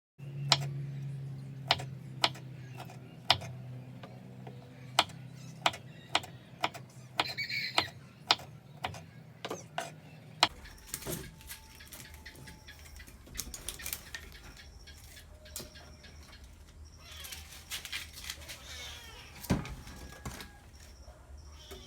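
A series of sharp taps and knocks at irregular intervals, over a steady low hum that stops about ten seconds in; scattered taps continue afterwards.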